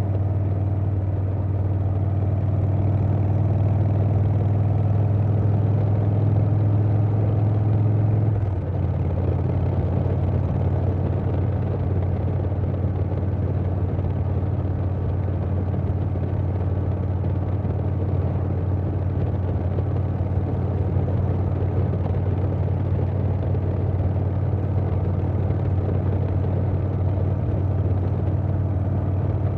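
2020 Harley-Davidson Softail Standard's Milwaukee-Eight V-twin running steadily at road speed through a Vance & Hines Big Radius 2-into-2 exhaust, with wind noise. About eight and a half seconds in, the note breaks briefly and then carries on a little lower.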